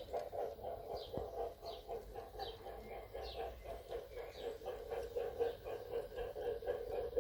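Sound decoder of an LGB Forney model steam locomotive (Massoth XLS) playing a steady, rapid chuffing through the loco's small speaker. Short falling bird chirps sound above it, mostly in the first half.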